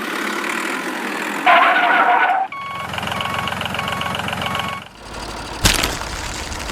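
Vehicle engine sounds in short, changing segments, with a short beep repeating about every half second for a couple of seconds in the middle and a sharp click about two-thirds of the way through.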